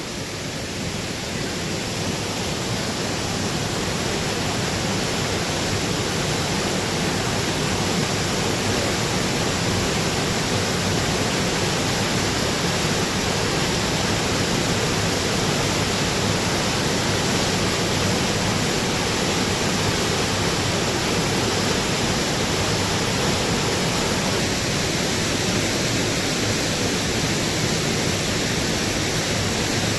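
Waterfall crashing into its pool close by, a steady, even rush of water.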